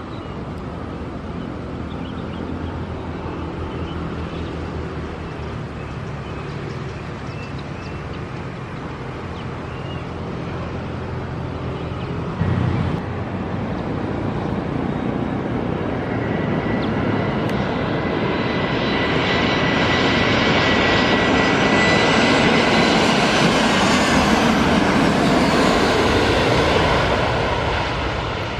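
Jet engines of an Airbus A330neo (Rolls-Royce Trent 7000) running, growing steadily louder with a high whine until loudest about two-thirds through, then easing off near the end.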